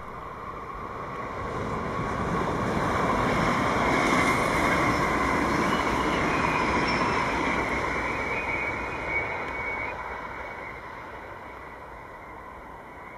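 A Dutch NS double-deck electric passenger train runs past on the line, a steady rumble and rush of wheels on rail. It builds over the first few seconds, is loudest in the middle with a thin high whine, and fades away near the end. A short click comes just after nine seconds.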